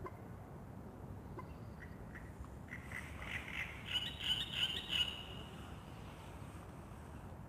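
Wild songbird dawn chorus: a few scattered single chirps, then one bird sings a rapid twittering phrase about three seconds in that lasts around two seconds, over a steady low background rumble.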